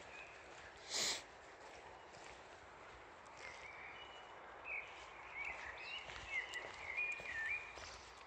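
A bird singing a run of short whistled notes that glide up and down, starting about three and a half seconds in, over steady outdoor background hiss. About a second in, a short loud burst of noise.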